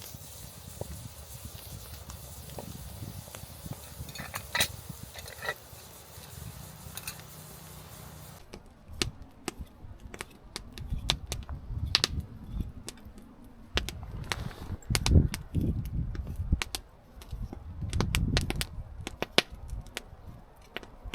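Soft outdoor background with a few light clicks, then many sharp clicks and knocks with low thuds, like cooking gear being handled.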